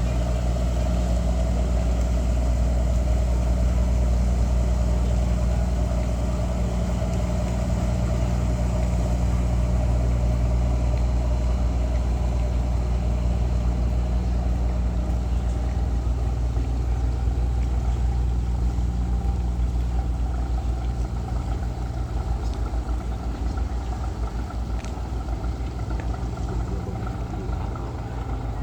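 An engine running steadily at constant speed, a deep even hum with a fainter higher drone, easing off somewhat in the last several seconds.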